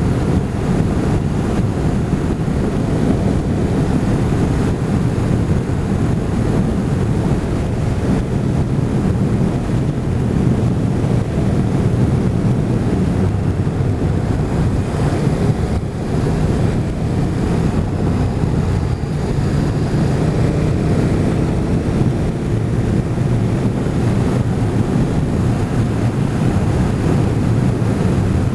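Motorcycle riding at a steady speed: the engine runs evenly under loud wind rushing over the microphone.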